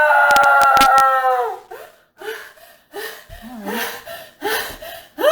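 A woman's long, high-pitched scream of distress that breaks off about a second and a half in, with a few sharp clicks over it. Then come short gasping, sobbing breaths, and a second scream starts at the very end.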